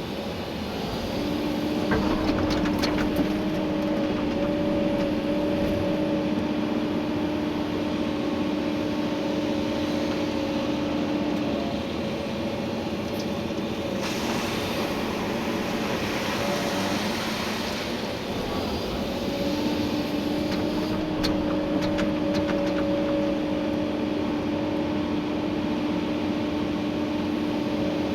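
Komatsu PC290-11 excavator working, heard from inside the cab: the diesel engine and hydraulics run with a steady whine that drops out for several seconds in the middle, when a rushing noise comes up instead. A few sharp knocks come through as the bucket works in gravel.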